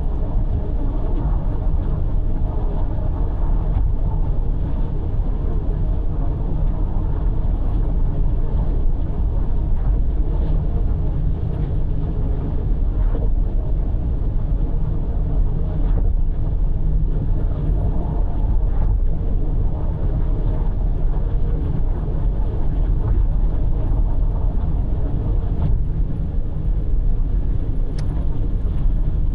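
Steady road and engine noise of a car cruising on an expressway, heard from inside the car, with a deep rumble.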